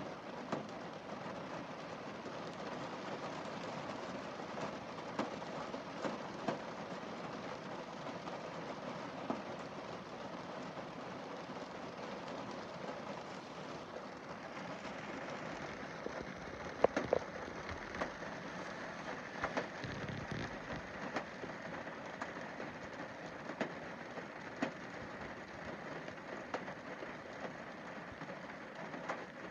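Rain falling on a car windscreen: a steady patter with single drops ticking on the glass, and a few louder drop hits about 17 and 20 seconds in.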